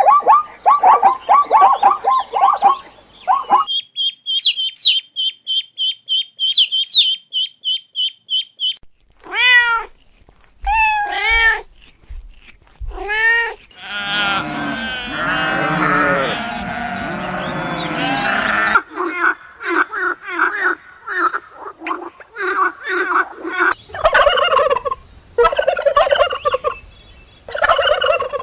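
Calls of several different animals in turn: a rapid repeated call at the start, then a high repeated chirping. Goats bleat in the middle, and in the last few seconds a flock of domestic turkeys gobbles in repeated bursts.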